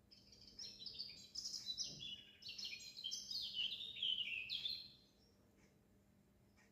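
A songbird singing a rapid, jumbled run of high chirping notes that stops about five seconds in.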